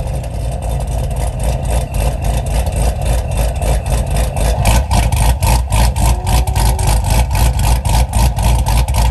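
ProCharged, methanol-injected 1,000-horsepower Corvette V8 idling loud with a rapid, pulsing exhaust note just after a cold start. The exhaust gets louder and harsher about halfway through.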